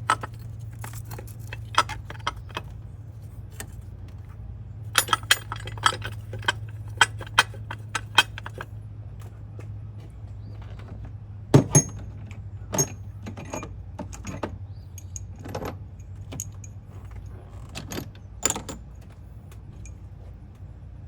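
Loose metal bolts and hand tools clinking and tapping against each other in scattered bursts, over a steady low hum.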